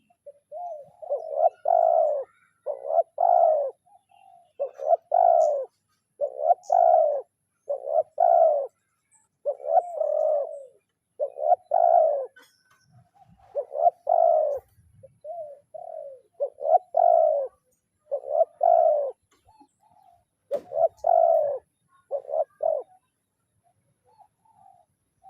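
Spotted dove (tekukur) cooing over and over in short repeated phrases, about one every second or two. It is a trained decoy dove's call, meant to draw in rival doves.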